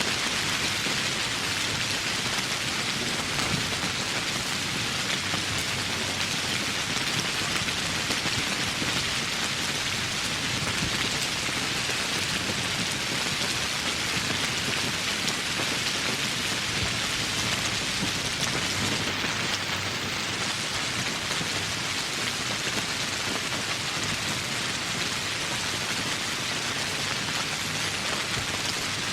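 Steady tropical rain falling, an even hiss that holds without a break.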